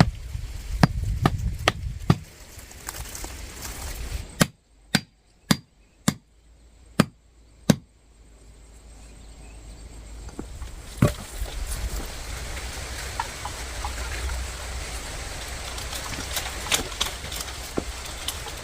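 Repeated chopping blows from a hand tool: quick strikes at first, then six separate blows with pauses between them. After about eight seconds the strikes give way to a steady rushing background with a few scattered clicks.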